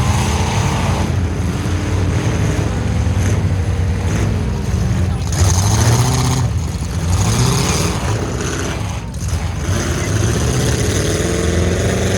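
Full-size pickup truck engines running loudly and revving, their pitch rising and falling again and again.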